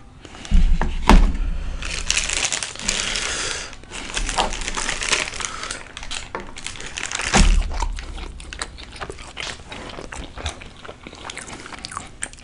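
Food packaging crinkling and rustling as it is handled close to the microphone, with heavy bumps and knocks against the mic about half a second in and again about halfway through.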